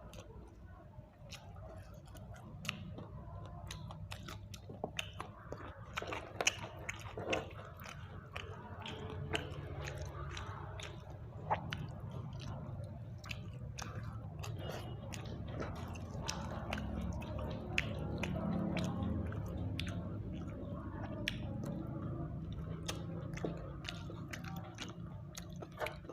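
Close-up mouth sounds of a person chewing and biting grilled chicken, with many short sharp clicks and smacks scattered throughout.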